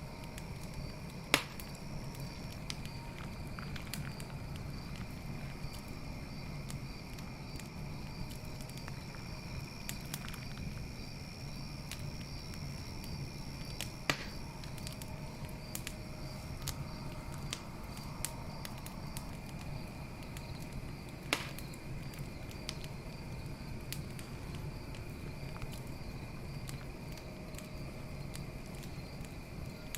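Campfire burning with a steady crackle of small wood snaps and three louder pops, over steady night insects, crickets chirping.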